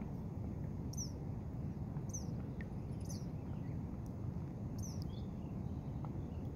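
A bird giving a short, falling chirp, repeated every second or so, over a steady low rumble.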